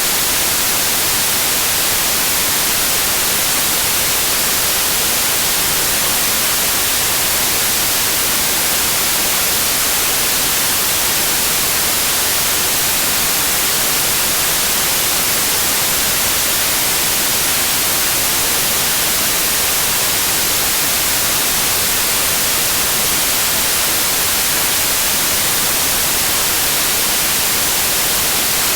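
Steady synthetic white noise: an even, unchanging hiss, strongest in the highs.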